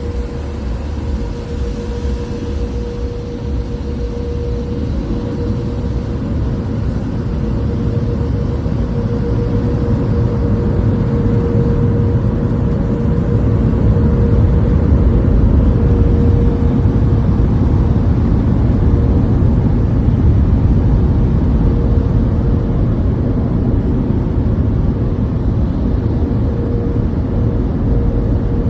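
Express car wash tunnel machinery heard from inside the car: a loud, steady rushing rumble with a constant hum, growing louder over the first half and then holding.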